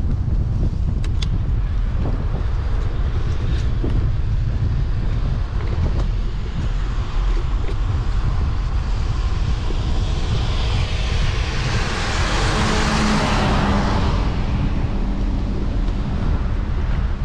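Steady low wind rumble on the microphone while cycling, with a motor vehicle passing close by: its noise swells to its loudest in the second half, with a low engine hum, then fades.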